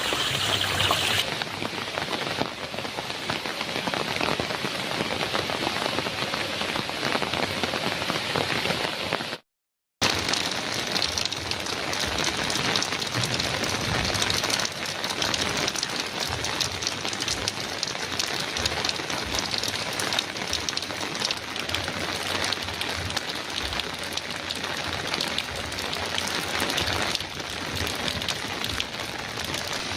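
Heavy rain falling steadily on a metal roof. The sound cuts out to silence for about half a second about a third of the way through, then resumes.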